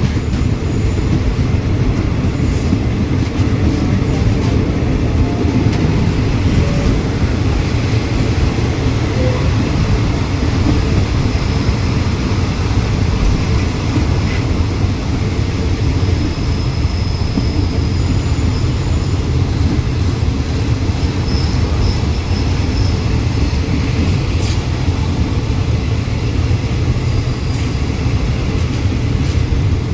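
Steady rumble of a moving diesel-hauled passenger train heard from on board: the carriage's wheels running over the rails, with faint thin high tones now and then in the middle.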